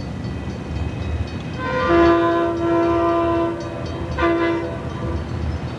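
Amtrak Desert Wind's diesel locomotive sounding its multi-tone horn: one long blast of about two seconds, then a short one, over the steady low rumble of the arriving train.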